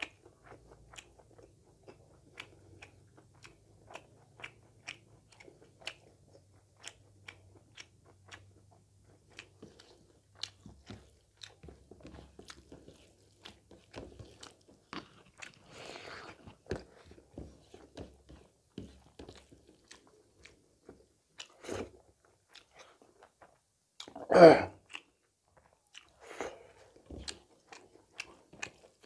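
Close-miked chewing and lip-smacking of pork and rice eaten by hand, with frequent small mouth clicks. A few louder mouth sounds break in, the loudest a short burst about twenty-four seconds in.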